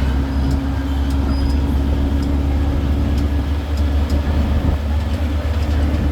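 Tourist road train running steadily, its engine drone heard from aboard, with light clicks and rattles throughout.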